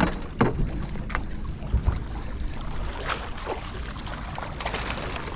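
Wind rumbling on the microphone aboard a small fishing boat, with a few scattered light knocks and clatters of handling gear and fish on deck.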